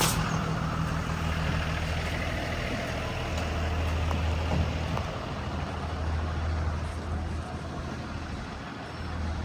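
Blue Bird Vision school bus engine running, heard from inside the bus as a steady low hum that swells and eases, over a haze of road and cabin noise. A brief sharp burst of hiss-like noise marks the very start.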